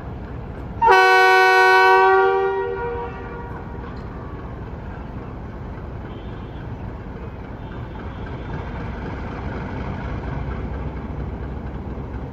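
Diesel locomotive horn sounding one loud blast about a second in, held for about a second and then dying away, the train's departure signal. A steady low rumble runs under it and swells slightly later on.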